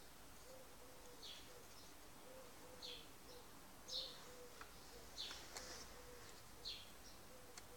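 Faint bird chirps, short and high, repeating about once a second over near silence, with a few faint clicks in between.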